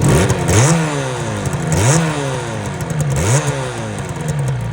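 Motorcycle engine idling and blipped three times, each rev rising quickly in pitch and falling back to idle.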